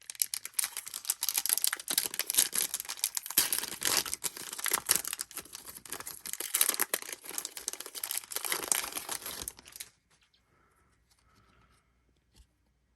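Trading card pack wrapper being torn open and crinkled by hand: a dense run of crackling and tearing that stops suddenly about ten seconds in.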